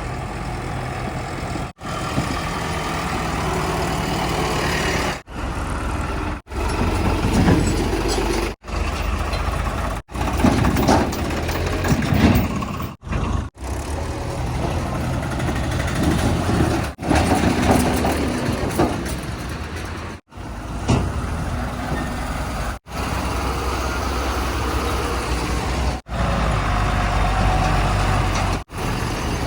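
Heavy diesel vehicle engines running and revving, in short clips joined by abrupt cuts every two to three seconds.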